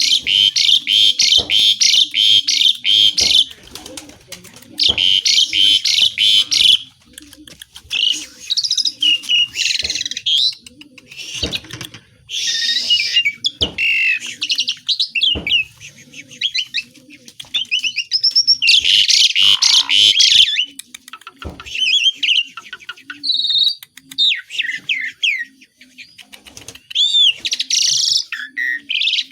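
Javan pied starling singing vigorously: long runs of rapid, harsh rattling chatter alternate with whistles, trills and varied phrases mimicking other birds.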